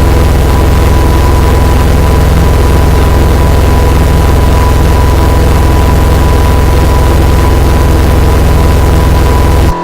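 Harsh noise music: a loud, distorted low drone with hiss and a steady high hum, switching on and off abruptly.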